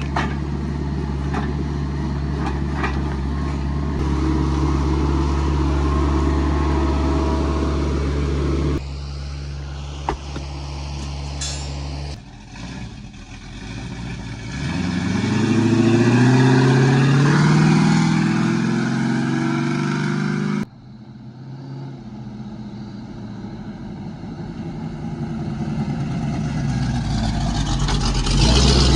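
A vehicle engine running steadily at low pitch, then revving with rising pitch, in several short clips joined by abrupt cuts, with a rising rush of noise near the end.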